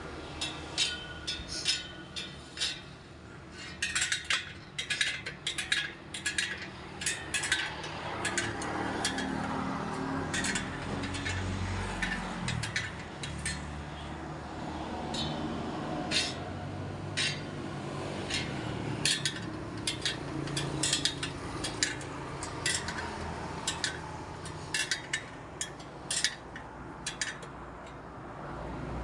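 Irregular light metallic clinks and ticks, many in quick succession, from metal parts and hand tools being handled, over a steady low rumble.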